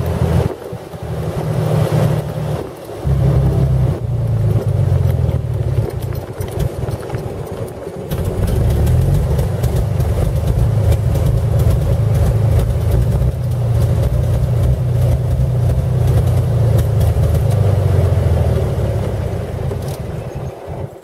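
The 1917 Buick's 242 cubic-inch overhead-valve six-cylinder engine runs as the open touring car drives along, with a loud, steady low rumble. The rumble dips briefly twice early on, then eases off near the end as the car slows.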